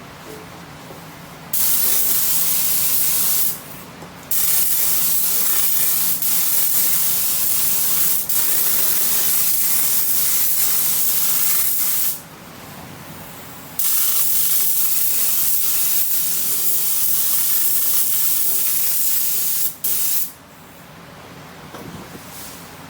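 Compressed-air paint spray gun hissing in trigger-pulled passes: a short pass of about two seconds, a long one of about eight seconds, another of about six seconds, then a brief final burst.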